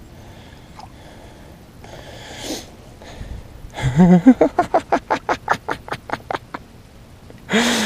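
A man laughing hard: a sharp breath in, then a long run of quick, evenly spaced "ha" pulses that trail off, with more voice starting near the end.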